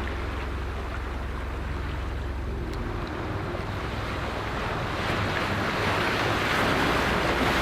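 Sea waves washing over a rocky shore, with wind rumbling on the microphone; the surf grows louder in the last couple of seconds.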